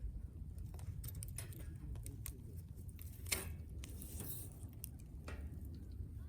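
Wood campfire crackling, with scattered sharp pops, the loudest about three seconds in, over a low steady rumble.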